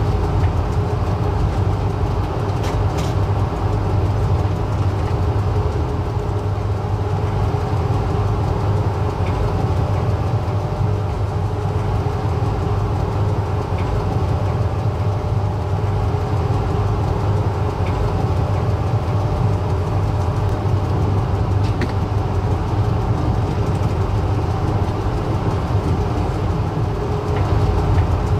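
Passenger train in motion, heard from on board: a steady low rumble with a few faint clicks every few seconds.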